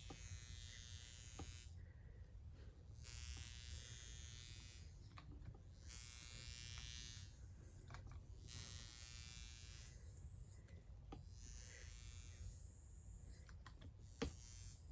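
High frequency facial machine with its comb electrode, buzzing as it is worked over the scalp, with a high crackling hiss of sparking that comes and goes in stretches of one to three seconds as the comb moves through the hair.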